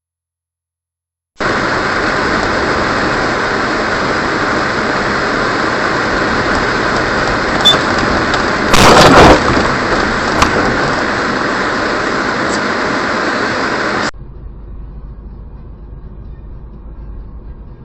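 Loud steady road and vehicle noise with a loud collision impact about nine seconds in, then an abrupt cut to quieter traffic noise.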